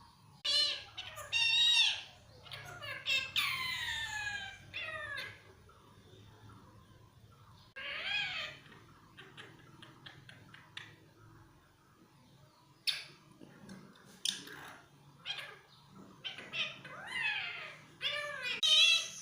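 Talking pet parrot squawking and chattering in short, high-pitched calls, some gliding down in pitch. The calls come in clusters with quiet gaps between.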